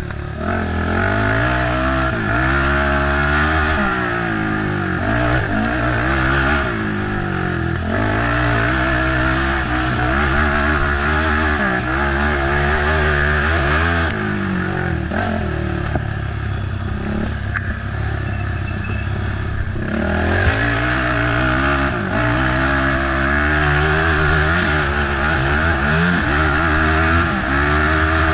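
Racing ATV's single-cylinder engine being ridden hard, repeatedly revving up and dropping off as the throttle is worked and gears change.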